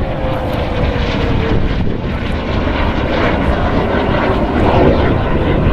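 Jet aircraft of the Turkish Stars' Canadair NF-5s flying by, a loud, continuous engine noise. A faint tone in it falls slowly in pitch over the first second and a half as the jets pass.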